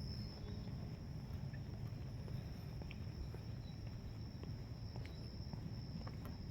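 Insects singing in one steady high-pitched drone over a low rumble, with a few faint clicks of footsteps.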